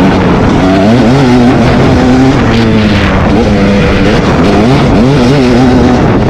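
Motocross dirt bike engine revving hard, its pitch climbing and dropping again and again as it shifts through the gears.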